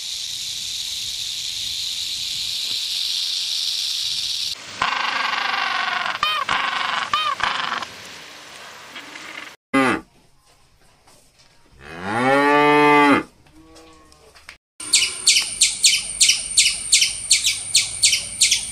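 A chain of animal sounds: a rattlesnake's rattle buzzing steadily for about four and a half seconds, then other short animal calls, then a buffalo giving one long, deep moo about twelve seconds in. Near the end comes a rapid high-pitched chatter of about four to five calls a second from a red squirrel.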